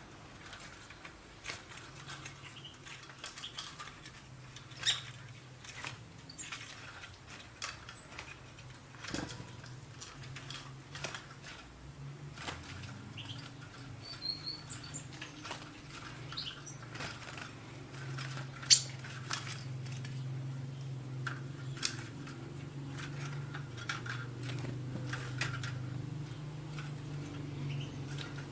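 Small bird fluttering and scrabbling in a wire cage trap: irregular sharp clicks and rattles against the wire, with a few brief high chirps, over a steady low hum.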